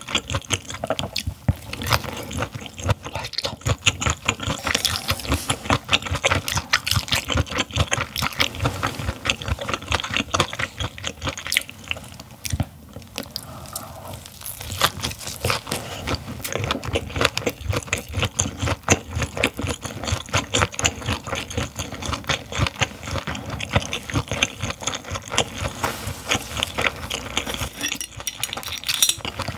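Close-miked chewing of raw gizzard shad: a quick, uneven run of wet crunching and mouth clicks.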